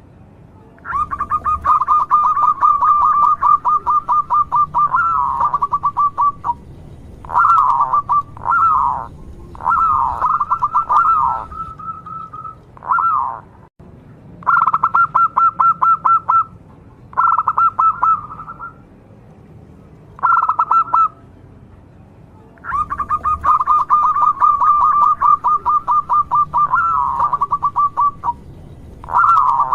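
Zebra dove (perkutut) singing: rapid stuttering coos at a steady pitch, in two long runs of several seconds near the start and near the end, with shorter phrases between.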